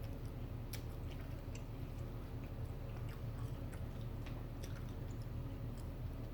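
Close-miked chewing: soft wet mouth clicks scattered irregularly through, over a steady low hum.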